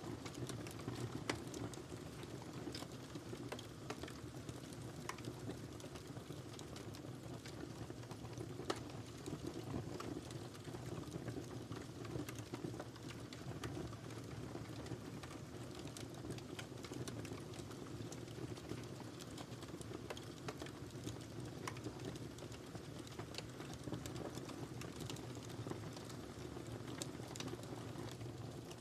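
Wood fire burning in a fireplace: a steady low rumble of flames with continual irregular crackles and snaps, a couple of louder pops standing out.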